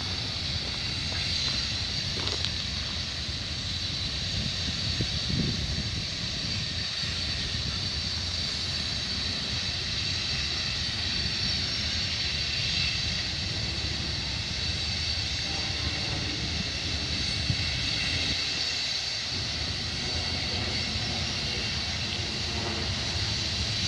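Canadian Pacific freight train rolling past, a steady rumble of cars and wheels on the rails with a thin, steady high tone over it.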